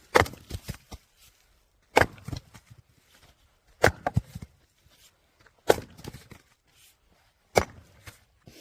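Firewood-splitting machine splitting logs: five sharp splitting strikes at an even pace of about one every two seconds, each followed by a few smaller knocks.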